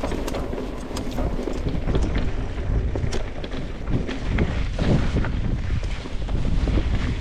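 Mountain bike descending a rough dirt trail: wind rushing over the microphone, with tyres rolling on dirt and the bike rattling and clicking over rocks and bumps.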